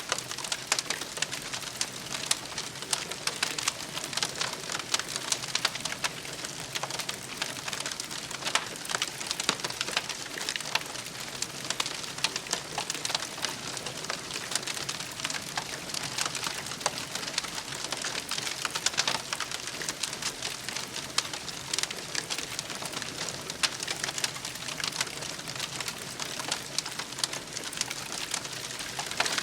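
Wood campfire burning: a steady hiss with frequent sharp crackles and pops throughout.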